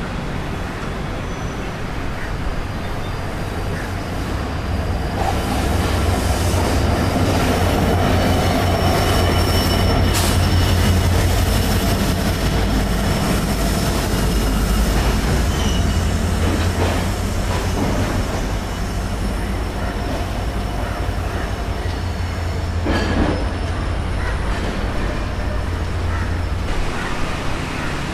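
A train running past: a steady low rumble with thin, high wheel squeal riding over it. It grows louder a few seconds in and eases off near the end.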